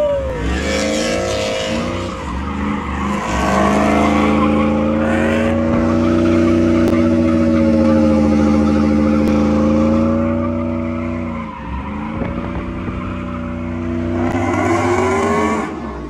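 Car engine held at high revs with tires squealing against the pavement. The engine note sags briefly about eleven seconds in and climbs again near the end.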